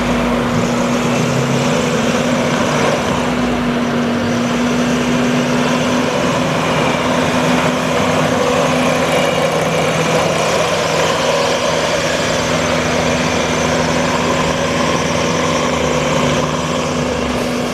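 Diesel engine of a 2018 Bobcat T740 tracked skid steer running steadily at a constant speed.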